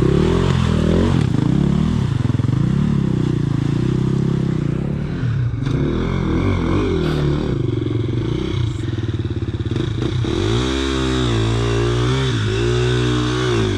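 Dirt bike engine being ridden on a trail, its revs rising and falling again and again as the throttle is worked.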